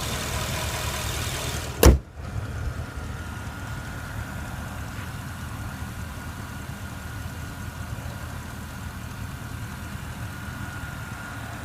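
Porsche Panamera Turbo's 4.8-litre twin-turbo V8 idling with a steady low rumble, cut across about two seconds in by a single loud slam of the hood being shut; afterwards the idle carries on more muffled with a faint steady whine.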